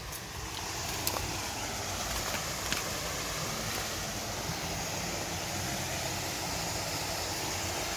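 Waterfall water rushing in a steady, even roar that builds up over the first second and then holds, with a couple of faint clicks about one and three seconds in.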